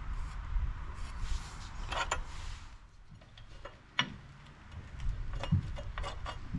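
Scattered clicks and knocks over a low steady rumble, the sharpest knock about four seconds in.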